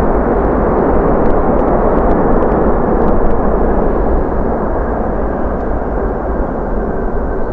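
Jet noise from the four Rolls-Royce Trent 500 engines of an Airbus A340-600 airliner: a loud, steady rumble with most of its energy in the low and middle range, easing slightly near the end.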